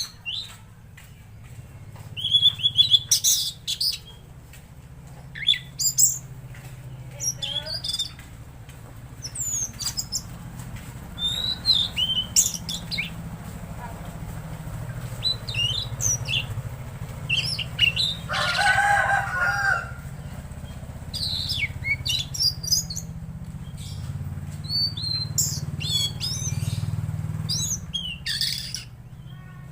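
Tledekan laut songbird singing a run of short, high, whistled phrases with quick up-and-down glides, repeated every second or two. A lower, harsher call breaks in for about a second and a half near the middle, over a steady low hum.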